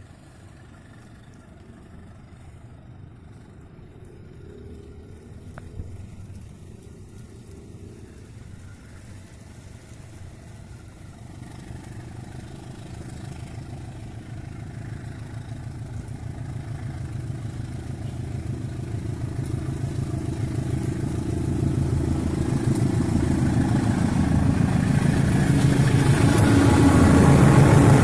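Diesel locomotive engine running with a steady low hum that grows steadily louder as the train approaches, with a rushing noise building up in the last few seconds.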